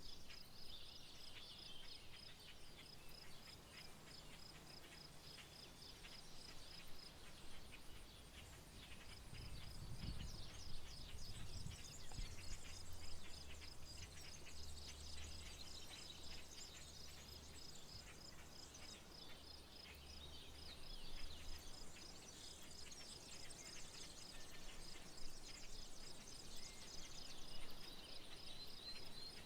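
Outdoor rural soundscape: an insect trills steadily in fast, even pulses, with a short break about a quarter of the way in, while birds chirp and call over it. A low rumble rises about a third of the way in and fades after the midpoint.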